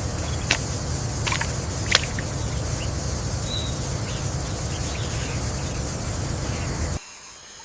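Rainforest ambience: a steady rushing background with a low rumble and a high, even hiss. Three short, sharp calls or clicks come within the first two seconds, and a brief chirp follows a little later. The ambience cuts off suddenly near the end, leaving a quieter background.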